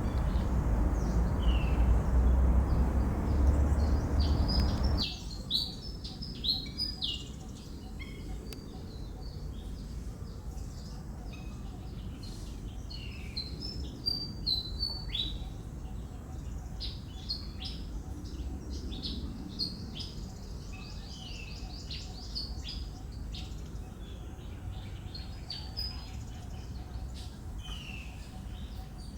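Many short, high bird chirps and tweets, repeated irregularly throughout. A loud low rumble underlies the first five seconds, then cuts off abruptly, leaving the chirping over a quiet background.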